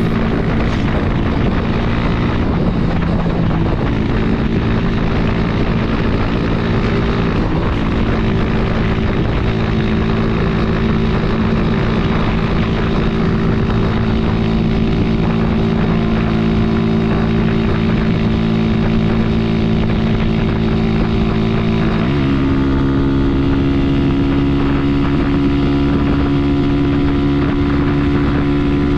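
Honda CG Titan 150's single-cylinder four-stroke engine running steadily under way, with wind rush. About three-quarters of the way through, the engine note rises and holds at a higher pitch.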